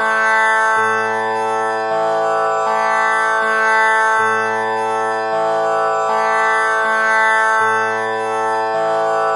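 Tanpura drone pitched to A (6 kattai). Its strings are plucked one after another in a slow repeating cycle, with the lowest string returning about every three and a half seconds. Each note rings on into the next, so the drone never breaks.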